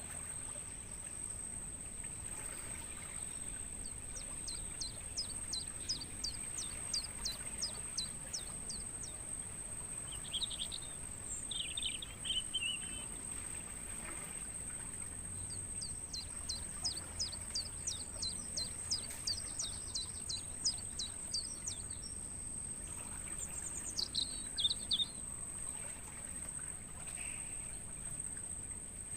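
Crickets trilling in one steady, unbroken high-pitched tone, with a songbird singing over them: two long phrases of quick, repeated high notes and a few shorter calls between.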